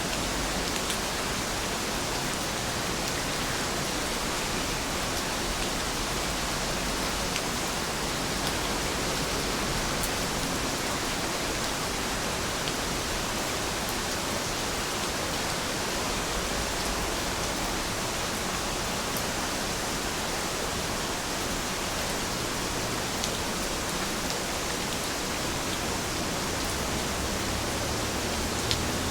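Steady rain falling, a dense even hiss with a few faint drip ticks.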